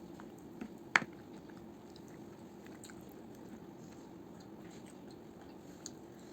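A person chewing a mouthful of fried rice and mutton curry, with small wet mouth clicks and one sharp click about a second in.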